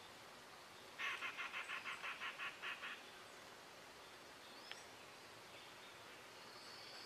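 Quiet outdoor ambience broken by a bird calling a quick run of about a dozen harsh notes, some six a second, for about two seconds. A single click comes near the middle, and a thin, high, steady call near the end.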